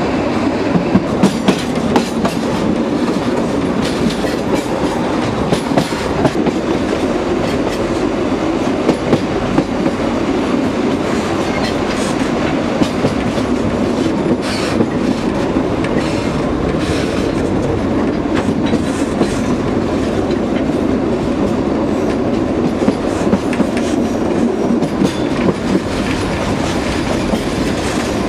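Narrow-gauge (760 mm) train running along the track, with a steady rumble and frequent, irregular clacks of the wheels over the rails.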